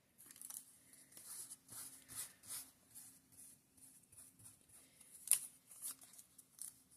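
Thin tissue paper being torn and handled by hand in small pieces: soft, irregular rustles and rips, one sharper near the middle.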